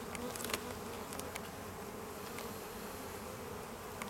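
Honeybees from an opened hive buzzing in numbers: a steady drone whose pitch wavers slightly, with a few light clicks in the first second or so.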